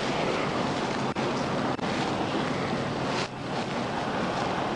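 Steady rushing noise of wind on the microphone and passing highway traffic, with a few faint clicks.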